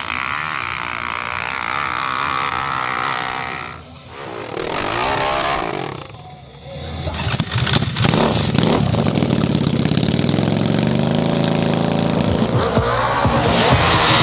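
Hill climb motorcycle engine revving hard, dropping away briefly twice, then running loud and dense through the second half.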